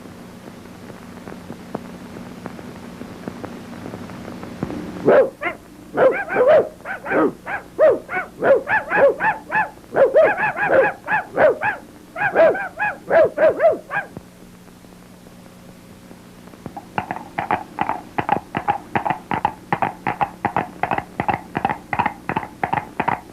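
A dog barking: after a faint hum, a run of loud barks starts about five seconds in and lasts about nine seconds. After a short lull comes a faster run of shorter yaps, about four a second.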